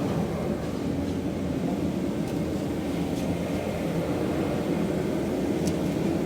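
Sandblasting equipment running steadily: a continuous drone with a hiss of blasting air over it, unchanging throughout.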